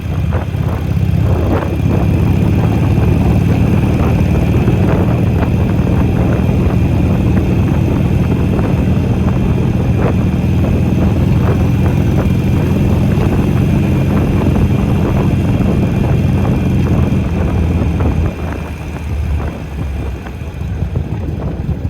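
Harley-Davidson Sportster XL883L V-twin engine running through newly fitted mufflers, with a deep, pulsing exhaust note. It holds a steadier, louder level for most of the stretch, then drops back and turns more uneven near the end.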